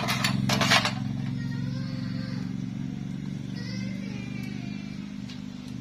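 Steady low mechanical hum of a running motor or engine. In the first second it is joined by a short, loud rattling hiss.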